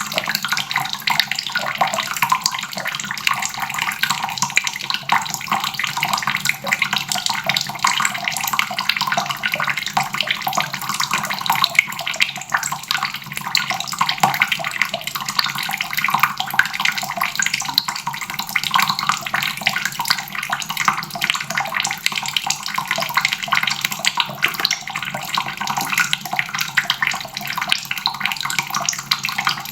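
Water faucet running steadily, a continuous splashing stream of tap water with no breaks.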